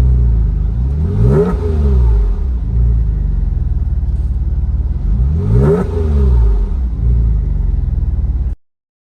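Porsche 987.1 Cayman S flat-six, fitted with a TPC turbo kit, running under way, its revs rising and falling several times with peaks about a second and a half in and again near six seconds. The sound cuts off abruptly near the end.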